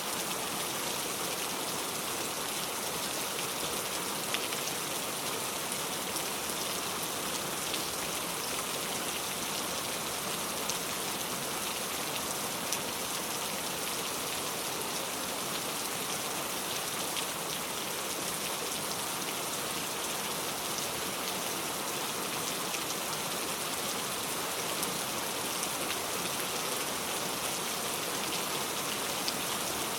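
Steady rain falling, an even hiss with scattered sharper drop hits now and then.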